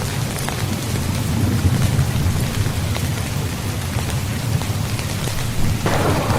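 Steady heavy rain hissing and pattering with a continuous low rumble of thunder. Near the end a louder crackling peal of thunder begins.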